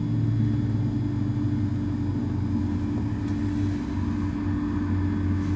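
A motor vehicle engine running steadily close by, a low, even hum that doesn't change.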